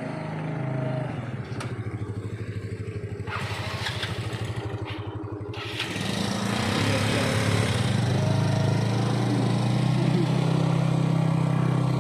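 Freshly restored Stihl 070 AV chainsaw's single-cylinder two-stroke engine running: a slow, pulsing, uneven idle for the first half, then about halfway through it speeds up and holds a steady, higher, louder run.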